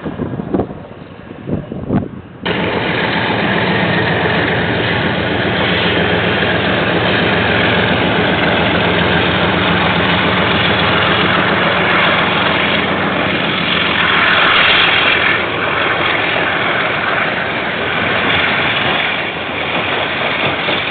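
KiwiRail diesel locomotive and its container freight wagons running past, a steady engine drone with rolling wheel noise. It cuts in suddenly about two and a half seconds in, after a few seconds of quieter noise with some knocks.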